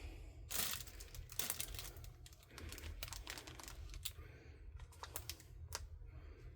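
Small hard plastic pieces clicking and clattering irregularly, with plastic packaging crinkling, as art tools and sponge packets are handled and put into a storage container.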